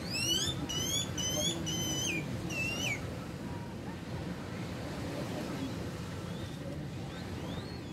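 A bird gives five quick rising whistled calls in the first three seconds, with one fainter call near the end. Underneath is the steady low wash of gentle surf.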